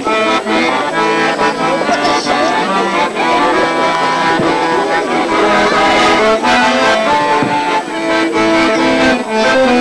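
Accordion music: an instrumental introduction with held chords and melody notes, leading into a song.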